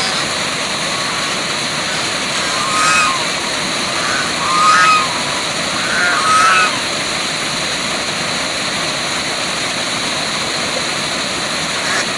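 Waterfall rushing steadily, with three short bird calls about three, five and six seconds in.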